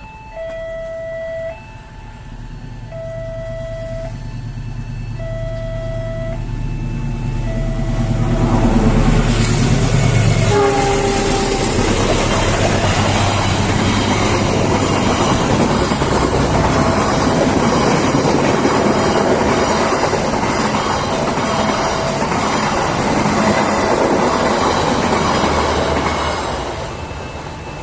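A level-crossing warning alarm repeats its two-tone chime while a passenger train approaches, gives one short horn blast about ten seconds in, then passes loudly for about fifteen seconds. The train noise fades near the end while the alarm keeps sounding.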